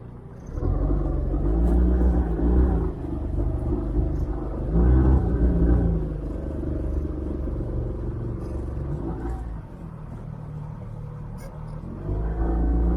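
Small outboard motor, a 9.9 hp Mercury on a jon boat, running with a low rumble; its pitch wavers early on and climbs a little as it is throttled up about twelve seconds in.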